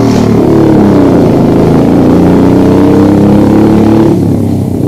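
Small motorcycle or moped engine running as it rides along, its pitch rising and falling gently. The higher part of the sound fades a little near the end.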